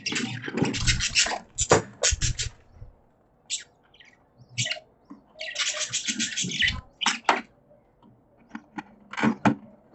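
Budgies chirping and chattering in bursts of fast, high-pitched notes, with short pauses between bursts and some low thumps mixed in.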